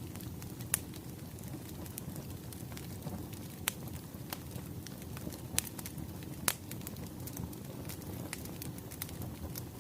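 Wood fire crackling: a steady low rumble of burning logs with irregular sharp pops.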